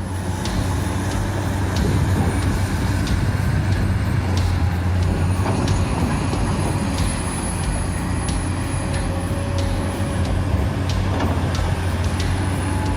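A heavy machine's diesel engine runs with a steady low drone, and sharp clicks and knocks of working machinery sound throughout.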